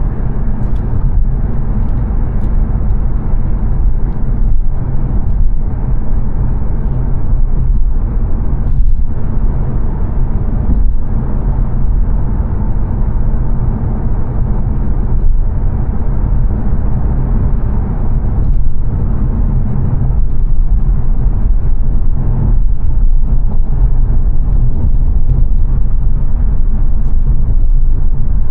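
Steady road noise inside the cabin of a 2022 Mazda 3 saloon cruising on a fast dual carriageway: a loud low drone of tyres and engine, heaviest in the bass.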